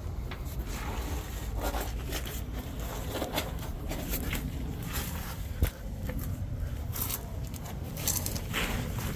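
Irregular scraping and rustling from hands working around a fuel line and its fittings, with a sharp click a little past halfway, over a low rumble.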